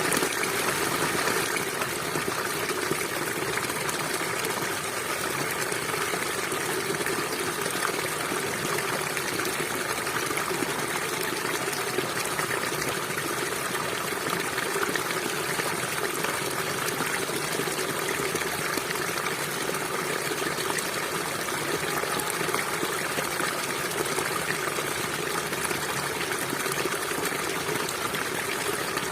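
A small stream of water running and trickling over rocks, a steady, even rushing with no breaks.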